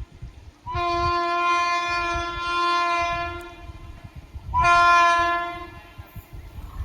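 Locomotive horn sounding two blasts, a long one of about three seconds and then a shorter one of about a second, over the low clattering rumble of a passing train.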